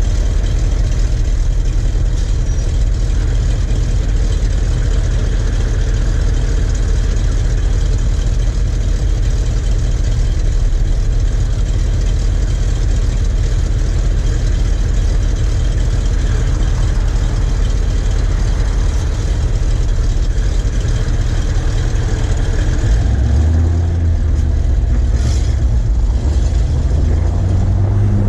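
Heavy International Paystar 5000 truck engine running with a deep, steady rumble. Near the end the engine note steps up and shifts as the revs change.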